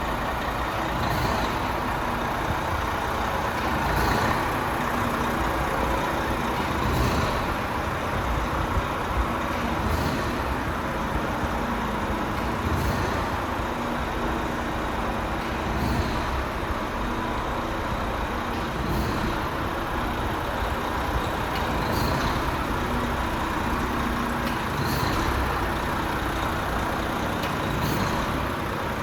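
The 11-litre, 460 bhp turbo diesel of a Renault T460 tractor unit running steadily, with a faint tick about every three seconds.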